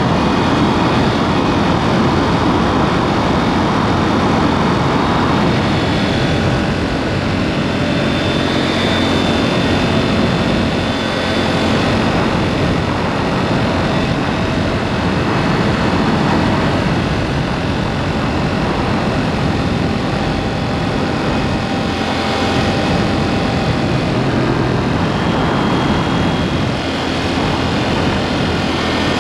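KTM 790 Duke's parallel-twin engine running steadily on the move through a SpeedPro Cobra SPX aftermarket exhaust, with wind and road noise mixed in.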